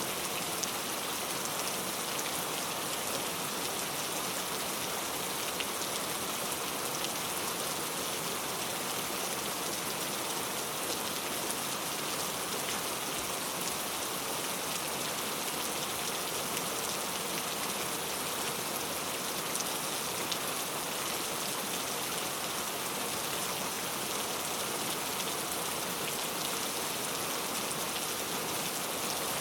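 Steady rain falling, a constant dense hiss of drops with fine individual drop patters on a surface.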